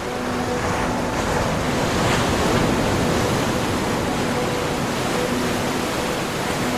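Ocean surf: a wave swells and breaks over the first couple of seconds, then the water washes on steadily.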